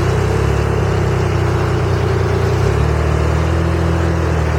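Ford Ranger's 2.8 V6 engine running at low revs under load while pulling a large fifth-wheel trailer, its pitch shifting slightly about two-thirds of the way through.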